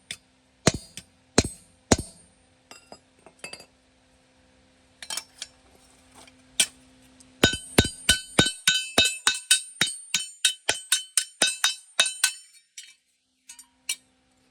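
Metal struck repeatedly with a hammer, each blow ringing: several single blows, then a fast run of about four strikes a second from about seven to twelve seconds in, then a few last hits.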